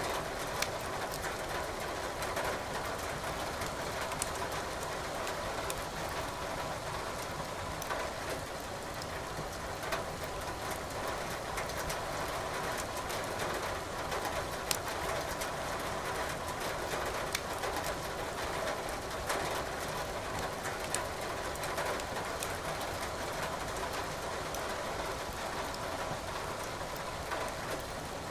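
Burning firewood crackling with many small sharp snaps over the steady hiss of rain.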